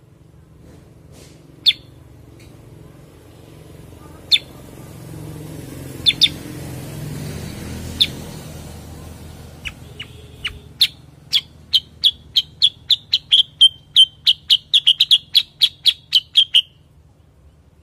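A cucak kurincang songbird calling: sharp, high single chirps a couple of seconds apart, then a fast run of repeated chirps that speeds up and breaks off shortly before the end.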